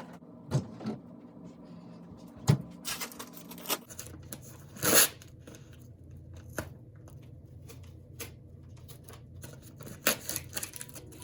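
Scattered knocks and clicks of small objects being picked up and set down, with a short hiss about five seconds in.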